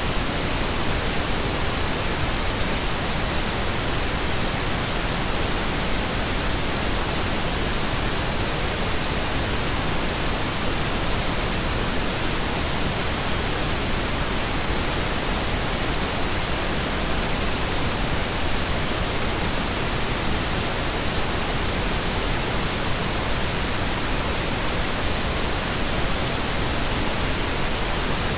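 Steady synthetic pink noise: an even, unchanging hiss across the whole range, with no rhythm or events.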